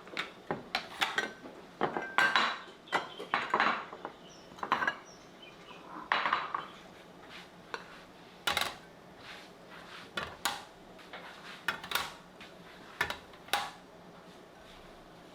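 Dishes and cutlery clinking and clattering as they are handled in a kitchen: many separate sharp knocks, thinning out toward the end.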